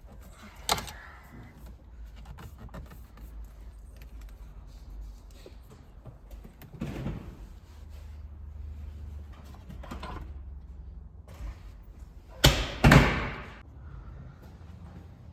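Knocks and thumps from work on a pickup's cab interior: a sharp knock about a second in, a softer one midway, and two heavy thumps about half a second apart near the end, the loudest sounds here.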